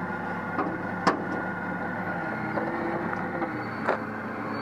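Engine idling steadily, with two sharp knocks, about a second in and near the end.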